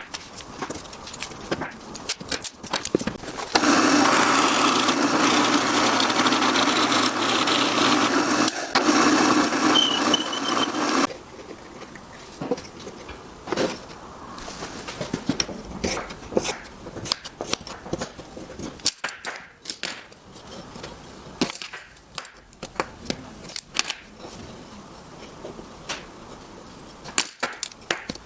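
A woodworking power tool runs steadily for about seven seconds and then stops abruptly. Before and after it come scattered knocks and taps of wood being handled on the bench.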